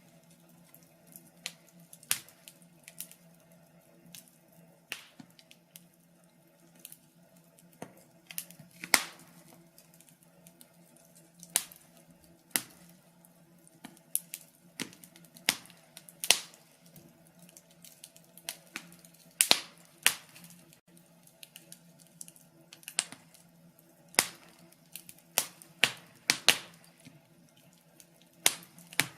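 Fire crackling, with irregular sharp pops and snaps, some loud and some faint, over a faint steady low hum.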